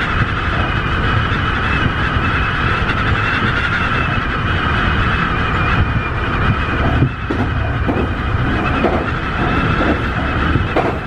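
Tobu 50090 series electric train running at speed, heard from inside the front car: a steady rumble with a high steady whine over it. Several short knocks come in the second half, like wheels passing over rail joints.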